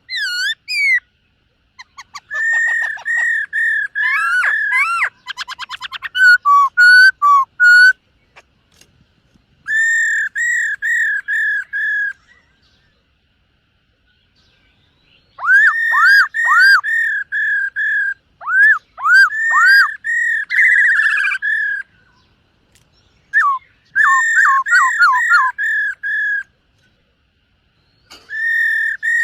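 Black-throated laughingthrush singing loudly: phrases of clear, repeated whistled notes in quick series of five to eight, with a fast rattling trill about six seconds in. Silent pauses of one to three seconds fall between phrases.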